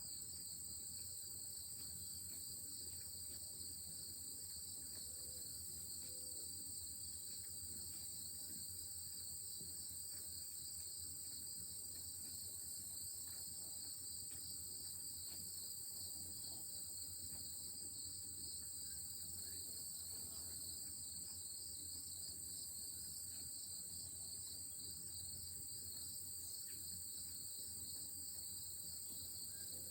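Late-summer chorus of crickets: an unbroken high trill with a second, rapidly pulsing trill just below it, steady and faint throughout.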